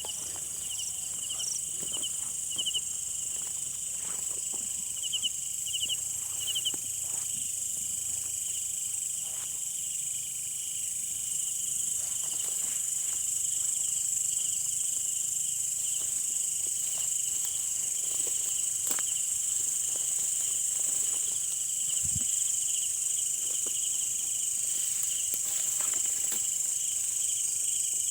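Night chorus of crickets and other insects: a steady high-pitched drone with a quick, evenly repeated chirping beneath it, and a few faint clicks and rustles scattered through.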